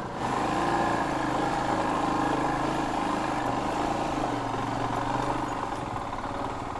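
Royal Enfield Himalayan's single-cylinder engine running at low speed in low gear on a rough dirt trail, its note dipping and picking up again about halfway through.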